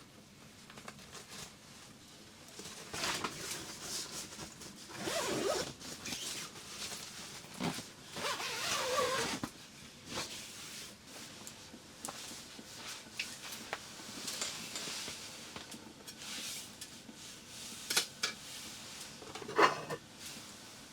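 A zipper being pulled in several strokes, with fabric rustling between them, then two sharp clicks near the end.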